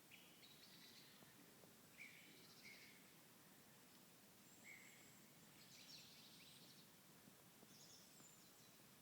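Faint birds chirping: short, high calls every second or two over a low background hiss.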